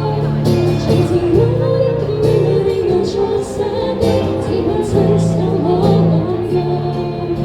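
A live band playing a pop song, with a singing voice carried over sustained bass notes and a steady beat of cymbal strokes.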